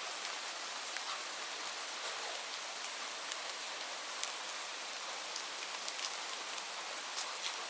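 Steady rainfall on fresh green leaves: an even hiss with many scattered individual drop ticks.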